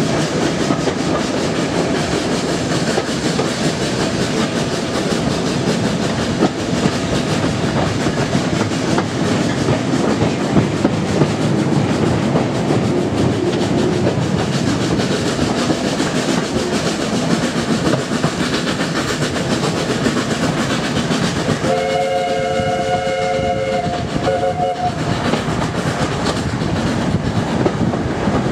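Steam-hauled passenger train running, heard from an open carriage window: steady wheel-on-rail rumble and rattle. From about 22 seconds a train whistle sounds a steady chord of several notes for about three seconds.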